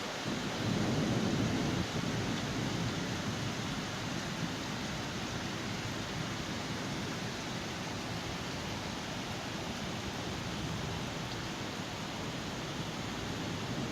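Steady rain falling during a thunderstorm, a continuous even hiss, with a louder low rumble for the first couple of seconds that ends about two seconds in.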